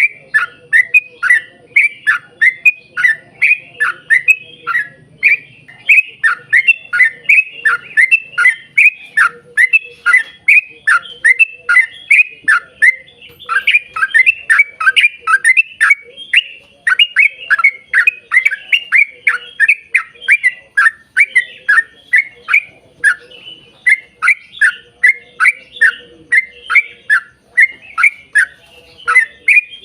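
Yellow-vented bulbul (trucukan) singing a long, unbroken run of short, bubbly chattering notes, about three to four a second, with a couple of brief lulls. A faint steady hum lies underneath.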